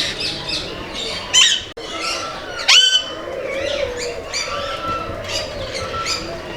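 Many aviary birds calling at once, with overlapping chirps and whistles and two loud, harsh squawks, one about a second and a half in and one near three seconds in.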